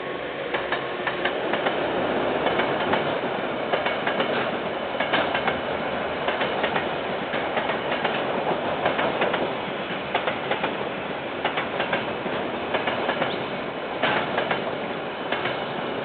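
KiwiRail freight train's container wagons rolling past, the wheels clicking over the rail joints again and again through a steady rumble. Heard through a security camera's microphone, with the top end cut off.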